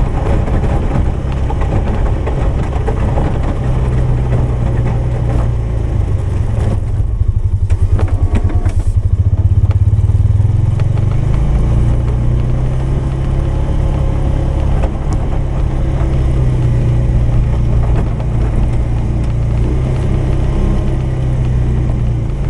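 Polaris 570 engine running steadily while plowing snow, with a louder, pulsing stretch about eight to ten seconds in.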